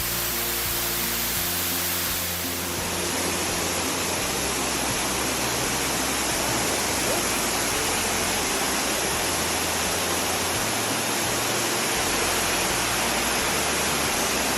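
Steady roar of rushing water from a waterfall, with background music carrying slow, changing bass notes over it.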